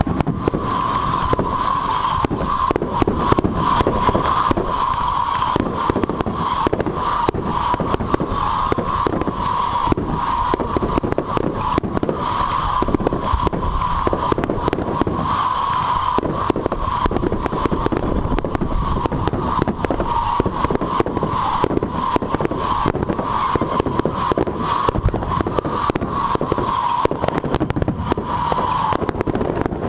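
Fireworks display going off continuously: dense crackling and many sharp bangs over a steady hiss.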